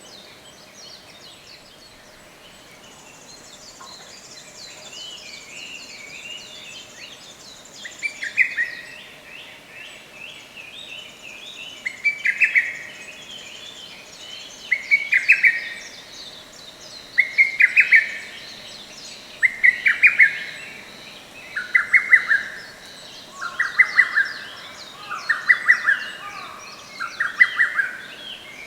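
Lesser cuckoo singing, its sharp multi-note phrase repeated about every two seconds from about eight seconds in, over fainter, higher twittering of other birds.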